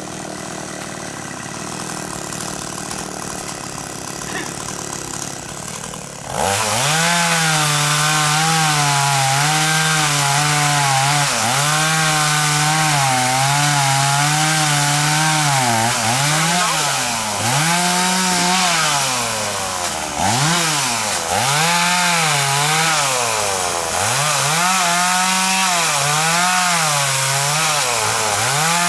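Chainsaw running quieter at first, then about six seconds in it opens up loud at high revs and cuts through the trunk of a large xà cừ (African mahogany) tree. Its pitch wavers, dipping and recovering several times in the second half of the cut.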